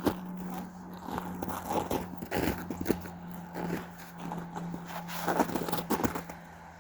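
Irregular crunching and scraping on snow and ice, over a faint steady low hum.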